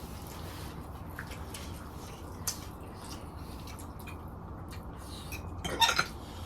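Quiet eating: faint wet mouth sounds and small clicks over a low steady hum, with a brief louder sound near the end.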